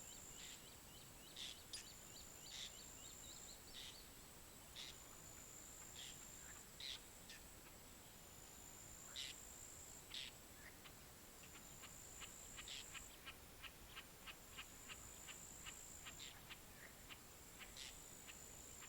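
Faint outdoor nature ambience: a high, steady insect trill held in long phrases with short breaks. Short bird chirps are scattered over it, and from about eleven seconds a quick, even run of chirps comes at about three a second.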